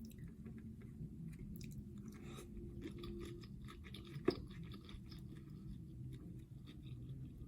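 Close-miked chewing of buttery seafood (crab legs and shrimp): soft wet smacking with many small mouth clicks, and one sharper click a little past halfway.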